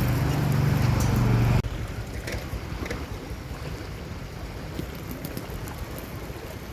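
Steady low engine hum of a vehicle that cuts off abruptly about a second and a half in. It gives way to a quieter, even rush of wind on the microphone and fast-flowing floodwater.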